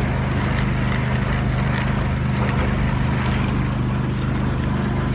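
Craftsman GT5000 garden tractor's 27 hp Kohler V-twin engine running steadily with an even low hum.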